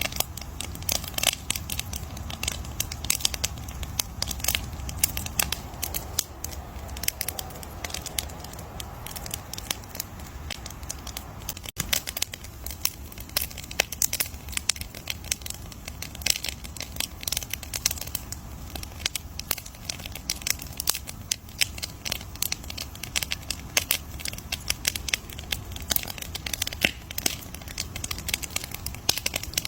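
Campfire burning with dense, irregular crackling and popping of wood over a low steady rumble of the flames.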